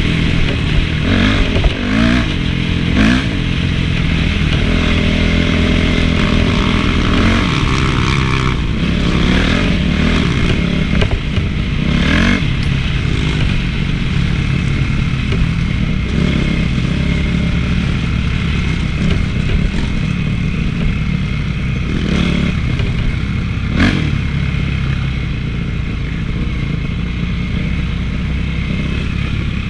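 Honda CRF450 four-stroke single-cylinder motocross engine running under riding, the revs rising and falling repeatedly in the first few seconds and then holding steadier. A couple of sharp knocks and rattles come about twelve and twenty-four seconds in.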